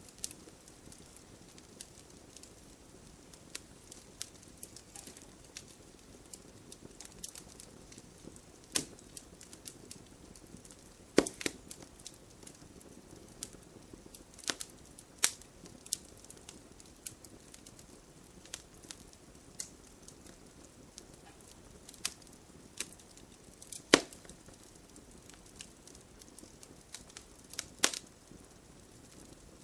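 Wood fire burning with irregular crackling and sharp pops over a low steady hiss, the loudest pops about a third of the way in, near the middle, and twice in the last quarter.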